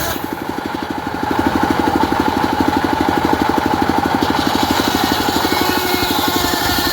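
Diesel engine driving a homemade circular saw rig, running steadily with a fast, even thump; it dips briefly in the first second, then picks up and holds.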